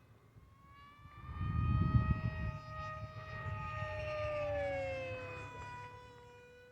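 Electric motor and propeller of an FMS Flash RC speed plane whining in flight. The whine rises in pitch after about a second, holds, then slides down around five seconds in. A brief low rumble about two seconds in is the loudest part.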